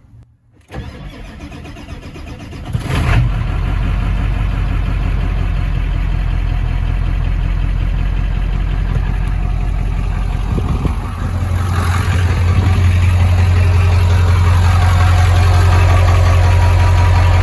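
7.3L Power Stroke V8 turbo-diesel cold-starting after sitting for weeks: the starter cranks it for about two seconds, it catches and settles into a steady idle. About eleven seconds in, the idle gets louder and deeper.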